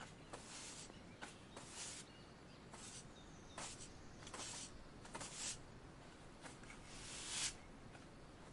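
Dry leaves rustling in short, irregular gusts, about one a second, the loudest near the end, with faint bird chirps.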